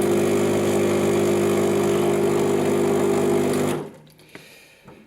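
Lelit PL41EM espresso machine's vibratory pump buzzing steadily, then cutting off abruptly just under four seconds in.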